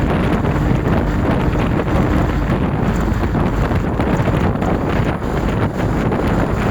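Strong wind buffeting the microphone: a steady, loud rumbling rush with no let-up.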